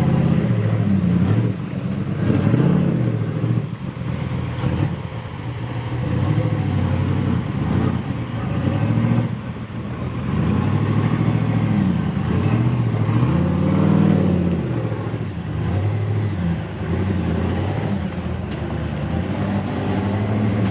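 Toyota FJ45's engine revving up and down over and over, each rev rising and falling within a second or two.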